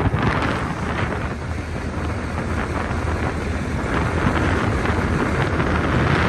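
Wind buffeting the microphone outdoors: a steady rumbling rush with no distinct strikes or tones.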